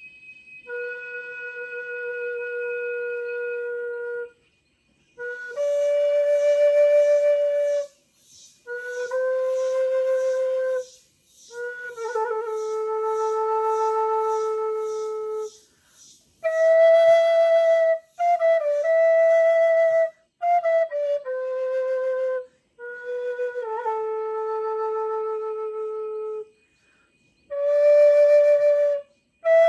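Solo flute played slowly: long held notes of one to four seconds each, separated by short pauses for breath, some notes sliding down into pitch, with an airy, breathy tone on several of them.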